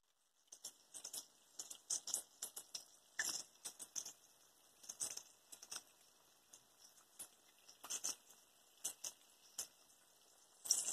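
Flour-battered bacon frying in hot oil: faint, irregular crackling and popping.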